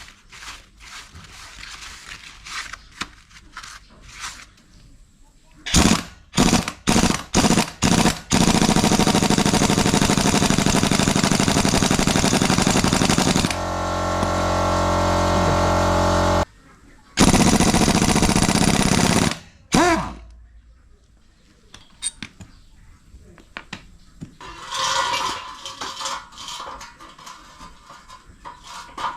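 Impact wrench undoing bolts on an engine: a few short rattling bursts, then a long run of hammering for about five seconds that turns into a smooth spinning whir as a fastener frees, then another burst a little later.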